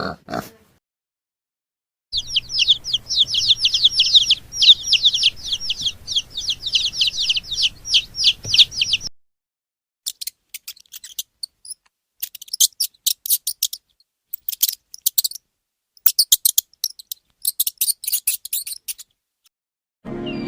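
High-pitched chirping, like a bird or chick. For about seven seconds it comes as a fast run of short falling notes, several a second. After a short pause it returns as sparser, higher, thinner chirps in clusters.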